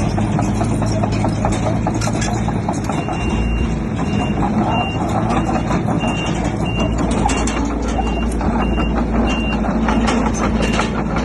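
Heavy construction machine backing up, its reversing alarm sounding short high beeps from about three seconds in. The alarm is over the steady running of a diesel engine and constant clatter.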